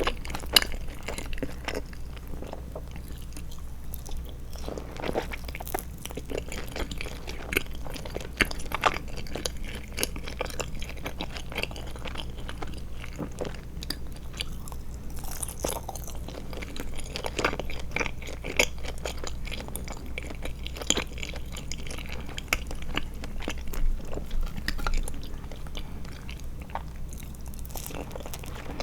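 Close-miked chewing of Trolli Glotzer eyeball gummies: many short mouth clicks and smacks in an uneven, steady run, over a low constant hum.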